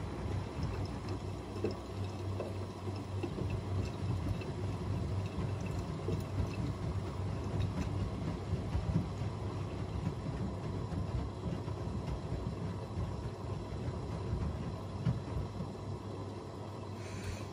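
AEG Öko-Lavamat 88840 and Miele Novotronic W 985 WPS washing machines running an easy-care wash: water swishing in the drums over a steady low motor hum.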